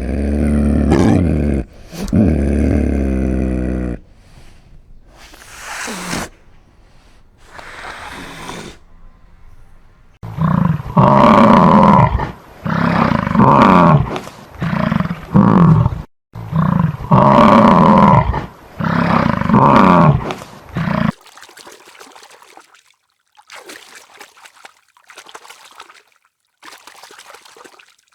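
Loud animal calls: a long call at the start, then a rapid series of about a dozen short calls in the middle, followed by fainter, scattered sounds near the end.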